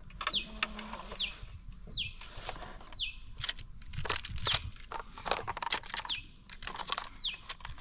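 A bird calling over and over, a short falling chirp about once a second, with scattered sharp clicks and knocks between the calls.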